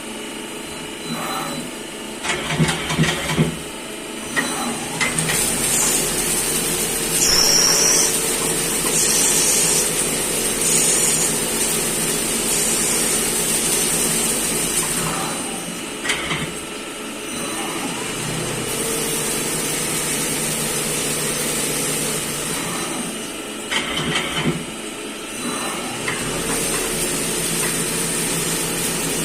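CNC machine running, with a steady high whine over a mechanical drone. There are a few short clusters of louder bursts near the start and again a little after the middle.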